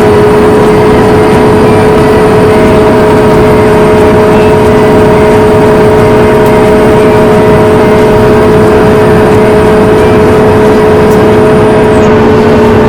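Boeing 737 MAX 9's CFM LEAP-1B jet engines running steadily, heard from inside the cabin: a loud rumble with a steady whine of several held tones. Near the end the high whine drops out and a lower tone comes in.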